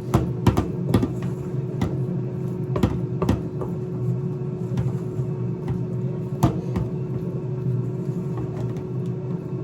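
Scattered clicks and knocks of a utensil against a mixing bowl as chicken pieces are turned in flour, several in the first few seconds and a sharp one about six and a half seconds in, over a steady low hum.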